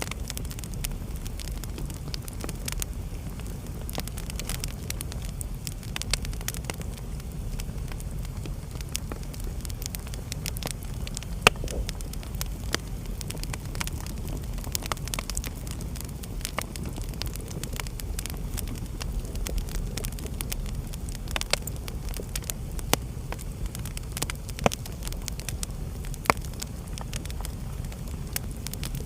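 Wood fire burning in a fireplace: a steady low rumble of flame with scattered sharp crackles and pops, the loudest a little under halfway through.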